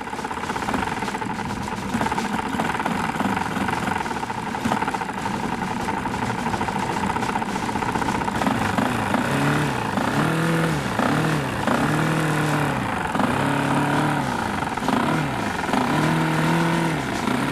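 Four-stroke model aircraft engine running, then from about halfway through revved up and back down again and again, about once a second.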